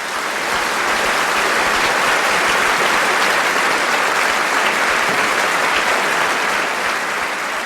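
Applause, dense and steady, building up quickly at the start.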